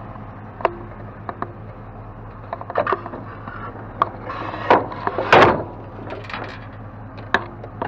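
Household items knocking and clattering as they are shuffled around to make room for one more piece in a loaded pickup bed: a string of sharp wooden-sounding knocks, loudest about five seconds in, over a steady low hum.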